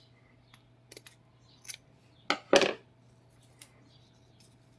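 Scissors snipping at hair tangled around a vacuum cleaner's brush roll: about six short, sharp snips, the loudest a quick pair about two and a half seconds in.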